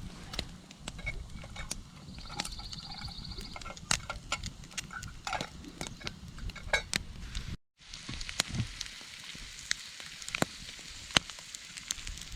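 Camp meal sounds: metal utensils clicking and scraping against camp dishes, over a faint hiss like food frying. A brief silence comes about two-thirds of the way through.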